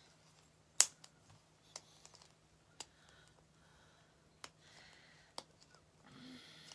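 A few scattered sharp clicks and taps from small craft pieces being handled, the loudest about a second in, over a faint steady low hum.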